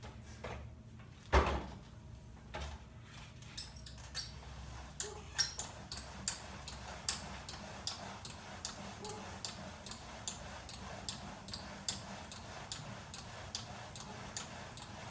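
A single thump a little over a second in, then a VersaClimber climbing machine squeaking in an even rhythm, about two to three short, high squeaks a second, with each stroke. It is an unwanted squeak from the machine in use.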